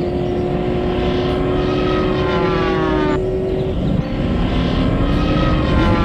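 Cartoon engine sound effect for toy monster trucks driving: a steady engine drone, with a whine that falls in pitch like a vehicle passing by about two seconds in and again near the end.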